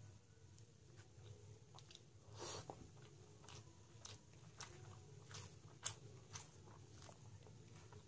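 Faint close-miked eating sounds of chewing, with scattered short wet mouth clicks and smacks, over a low steady hum.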